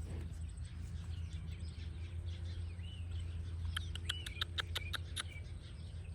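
Small birds chirping, with a quick run of sharp chirps about four seconds in, over a steady low rumble.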